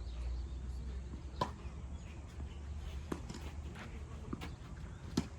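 Tennis ball being struck and bouncing during a rally: a few sharp pops roughly every second and a half, over a low steady rumble.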